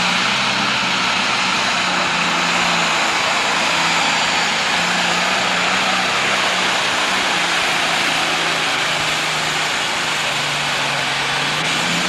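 Turbocharged diesel engine of a super stock pulling tractor running loud and steady at high revs, its pitch holding level.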